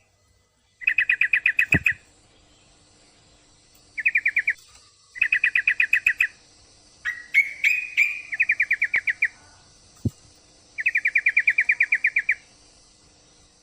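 Yellow-vented bulbul (trucukan) calling: six bursts of rapid chattering, each up to about a second and a half long, about ten notes a second, with a few sharper higher notes about seven seconds in. It is the call of a female in breeding condition calling a male.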